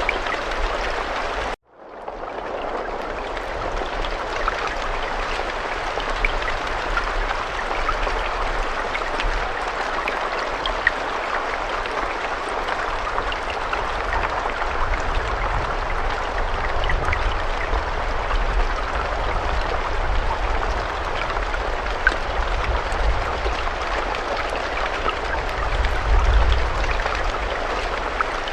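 Steady rain: a dense hiss of falling drops with scattered sharper drop ticks and a low rumble underneath. About one and a half seconds in it cuts out to near silence for an instant and then fades back in.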